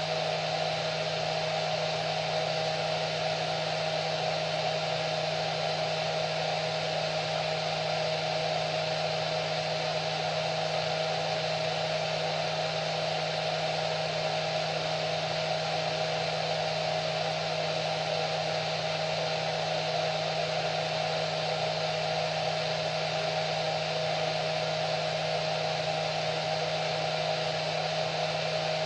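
Electric hair dryer running steadily: a constant whoosh of blown air under a steady motor hum, with no change in speed.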